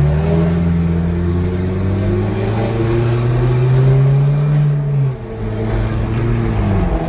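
Car engine held at high revs under throttle, its note climbing slowly for several seconds, then dropping about five seconds in as the throttle eases, and running on more quietly.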